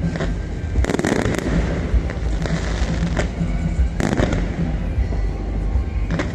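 New Year fireworks going off in a dense barrage: a continuous low rumble with sharp bangs every half second to a second.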